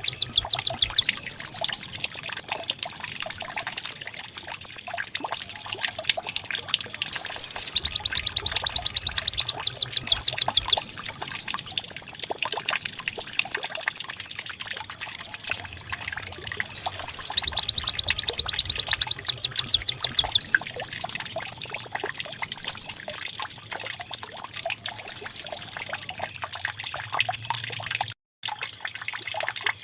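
White-eye (pleci) song in a canary-like style: fast, high rattling trills alternating with a wavering whistled note, played as a looped lure recording. The same phrase repeats three times with short breaks, then stops about 26 s in, leaving a faint trickling.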